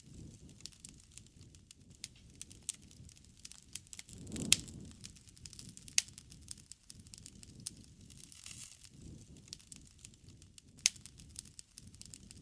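Wood campfire burning: a low rumble of flames with irregular sharp crackles and pops from the burning wood, one loud pop about four and a half seconds in.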